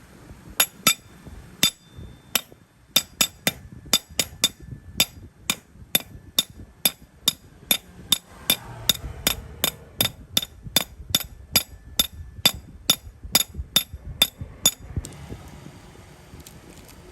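A hammer striking metal over and over: a few scattered blows at first, then a steady run of about three blows a second, each with a short metallic ring. The blows stop about fifteen seconds in.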